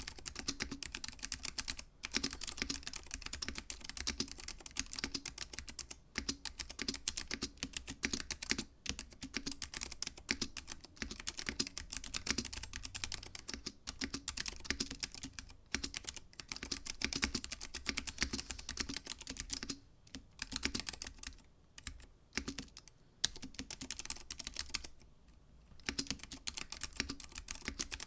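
Typing on a Freyr TKL mechanical keyboard with Alps SKCM Orange switches on an FR4 plate: a dense, continuous run of keystroke clicks, broken by a few short pauses near the end.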